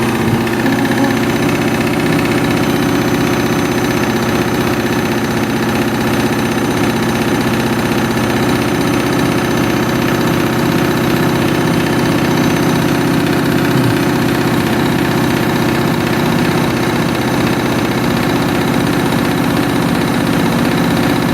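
Washing machine drum spinning at speed, a loud steady hum and rumble that holds an even pitch throughout; the owner reckons this spin, with the machine overdosed with detergent, only reached about 800 rpm.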